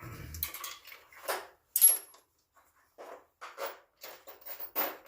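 Metal clicks and scrapes of tools working a truck's loosened front axle nut off the hub, irregular short strokes with one sharper ringing clink about two seconds in.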